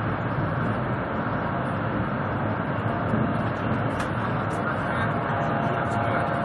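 Steady rushing rumble of a high-speed bullet train running at speed, heard from inside the passenger car.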